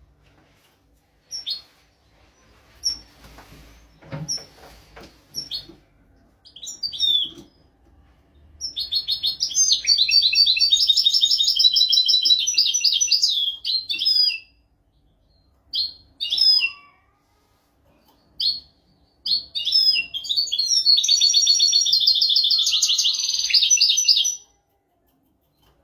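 European goldfinch singing: scattered short high chirps, then two long, rapid, high-pitched trilled phrases of about five seconds each, separated by a few more chirps.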